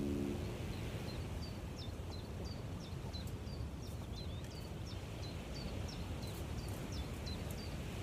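A small songbird calling a long, quick run of short high chirps, about three a second, over a steady low rumble of outdoor noise.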